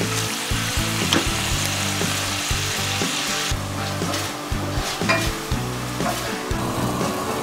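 Quail eggs sizzling in a thick sauce in a hot pan while a wooden spatula stirs them. The sizzle drops off about halfway through, leaving a few light clicks.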